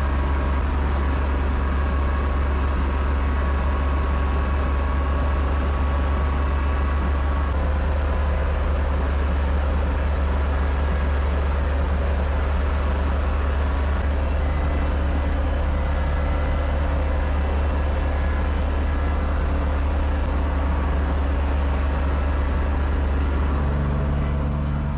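Kubota tractor's diesel engine running steadily under load, a constant low drone whose pitch shifts slightly twice.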